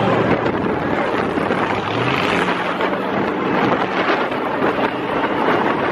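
Monster truck engine running loud under a thick layer of steady noise during a ride-along, its pitch rising slightly about two seconds in.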